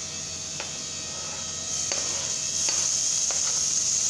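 Chopped onions and green chillies sizzling in plenty of hot oil in a frying pan. About two seconds in, chopped tomatoes go in and the sizzle gets louder, with a few light taps against the pan.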